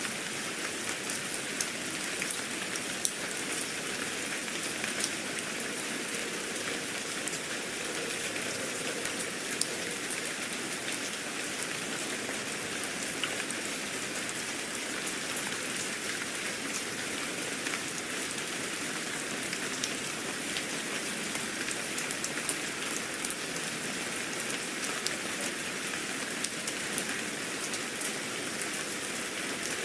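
Steady rain falling, with an even hiss and many small drops ticking on a surface.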